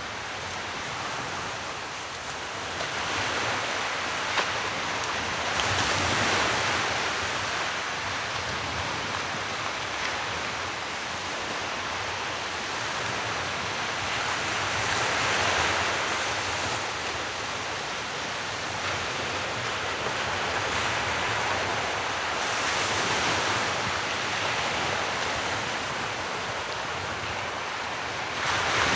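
Sea waves washing onto a shore: a steady hiss of surf that swells as each wave breaks, several times.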